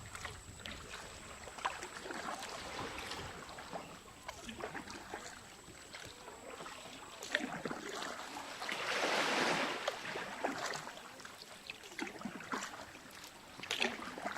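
Kayak paddles dipping and splashing in calm sea water, with a longer, louder rush of water about nine seconds in.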